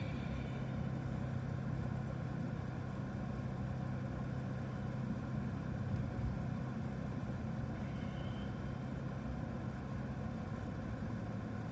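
Car engine and road noise heard from inside the cabin while driving: a steady low hum with an even rushing background.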